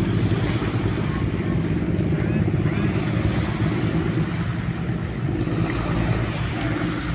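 A ship's diesel engine running at a steady low drone, mixed with wind on the microphone and wash of water.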